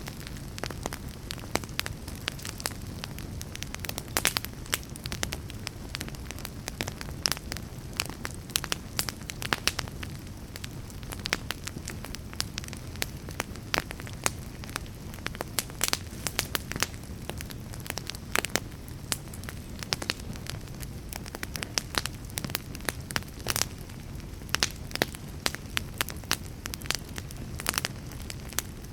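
Wood fire crackling steadily, with irregular sharp pops and snaps over a low rumble of burning.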